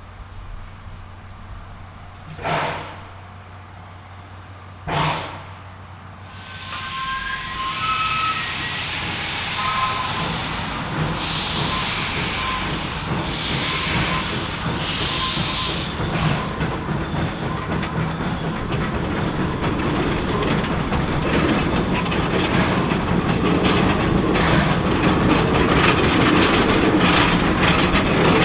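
Steam locomotive approaching and getting steadily louder, with puffs of steam hiss about once a second and then a rising rumble of the train on the rails. Two sharp knocks come first, about 2.5 and 5 seconds in.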